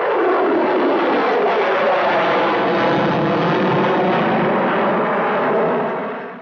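Jet aircraft noise, a loud steady rush that fades out near the end.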